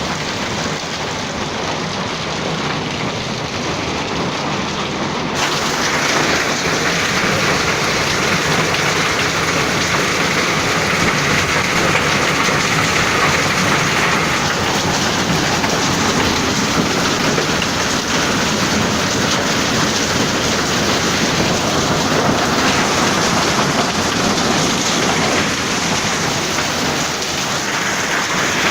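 Hailstorm with heavy rain pelting down on surfaces: a dense, steady downpour that gets louder and sharper about five seconds in.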